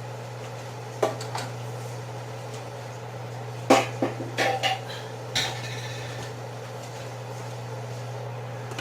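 A few sharp metal clinks and knocks of kitchen utensils against a cooking pot, the last one ringing briefly, over a steady low hum.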